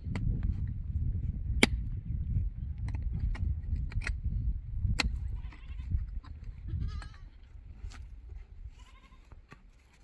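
Goats and sheep bleating in short calls, mostly in the second half, over a low rumbling noise that fades toward the end. Several sharp clicks or knocks are mixed in.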